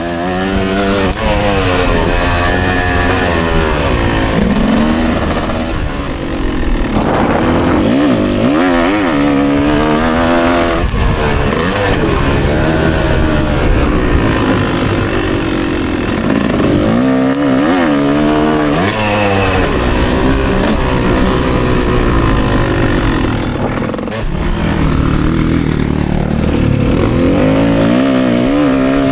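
Yamaha YZ250 two-stroke dirt bike engine being ridden hard, revving up and down over and over, its pitch climbing and dropping with the throttle and gear changes.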